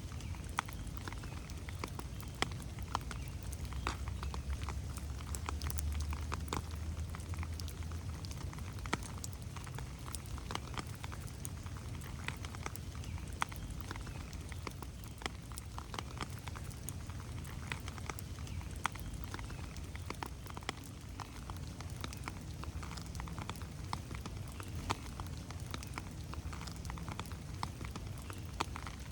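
Rain falling on forest foliage, many separate drops ticking over a steady low rumble that grows louder for a few seconds near the start.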